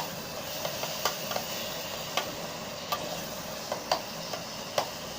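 Tomato sauce frying in a switched-on electric kettle: a steady sizzling hiss with a handful of sharp clicks scattered through it.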